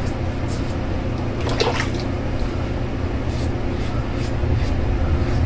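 Wet shaving on the face: short scratchy strokes on lathered stubble, about two a second, one stronger stroke about a second and a half in, over a steady low hum.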